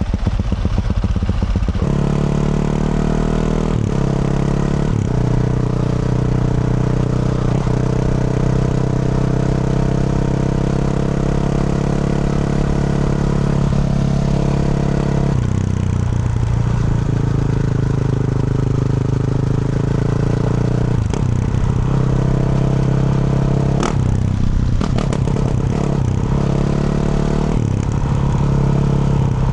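2024 Yamaha YZ450F's single-cylinder four-stroke engine with a Yoshimura RS-12 exhaust, running loud at fairly steady revs under way. The pitch steps up about two seconds in and drops to a lower steady note around halfway, with a few short knocks near the end.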